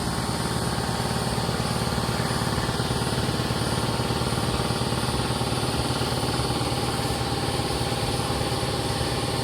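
Air compressor running steadily, with a fast low pulsing.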